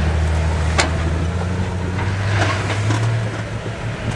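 Off-road vehicle engine running steadily as it crawls over the slickrock trail, its pitch rising a little in the middle. There is a single sharp click about a second in.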